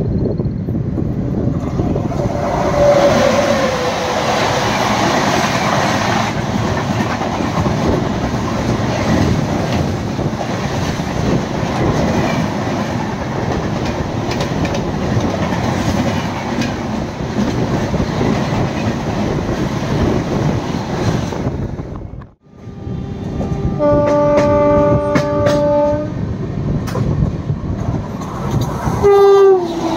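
Express train passing close alongside on the next track, heard from a moving train: loud rushing wind and wheel rattle, with a short horn blast falling in pitch about three seconds in. After an abrupt cut, a steady two-second blast of a multi-tone locomotive horn, then another horn falling in pitch as an oncoming locomotive passes near the end.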